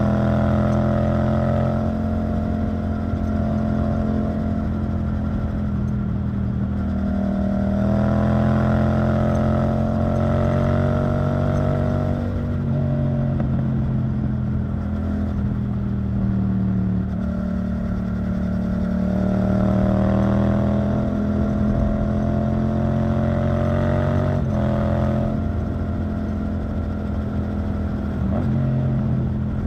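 Yamaha MT-07's 689 cc parallel-twin engine through an Arrow Thunder titanium exhaust, ridden under way. The engine note climbs steadily, then drops abruptly at gear changes several times, around 12 and 24 seconds in.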